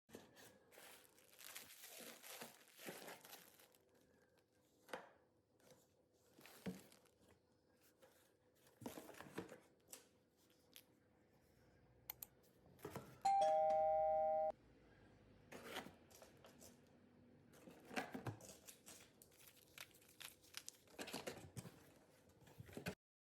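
Quiet rustling, crinkling and tearing noises with scattered light knocks, over a faint steady hum. About 13 seconds in, a loud two-tone electronic chime, like a ding-dong doorbell, sounds for just over a second and cuts off sharply.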